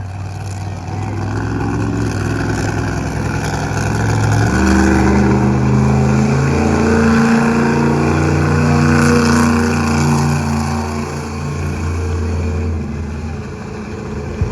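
Monster truck engine revving hard, its pitch stepping up and down with the throttle, growing louder about four seconds in and easing off near the end.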